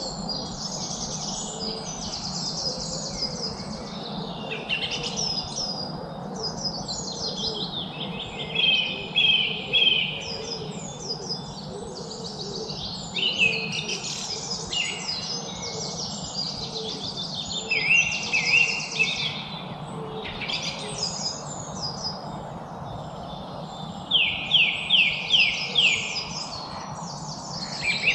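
A chorus of several songbirds singing and chirping over one another over a steady low background noise, with louder runs of quick repeated notes, about four or five a second, now and then, most plainly near the end.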